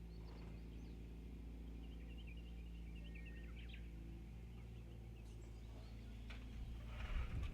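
Wild birds calling, with a quick run of short high chirps a couple of seconds in, over a steady low hum. A brief burst of rustling noise near the end.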